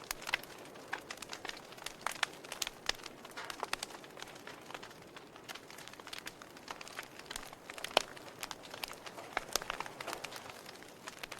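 Wood fire crackling: irregular sharp pops and snaps from the burning wood over a soft steady hiss, with one louder pop about eight seconds in.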